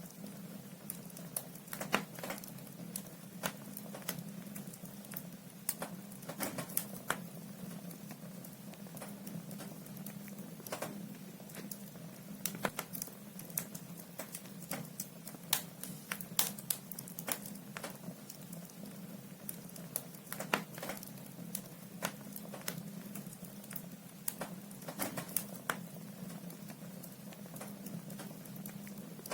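Logs burning in a wood fireplace, crackling with irregular sharp pops and snaps, some louder than others, over a steady low hum.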